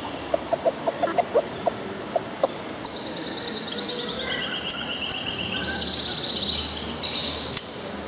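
Feather-footed bantam chickens clucking in a quick run of short, soft notes for the first couple of seconds, then a small bird sings a rapid high trill that drops a step in pitch and climbs back up, lasting about three seconds.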